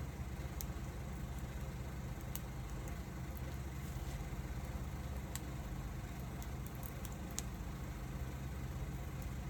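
Wood fire burning, with scattered sharp crackles and pops of the burning wood over a steady low rumble.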